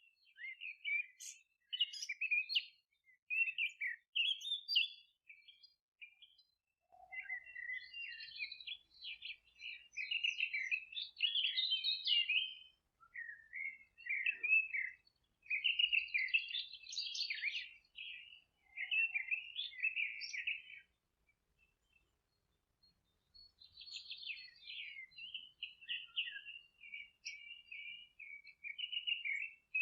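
Small songbirds singing and twittering in bouts of rapid high chirps, with short pauses between phrases.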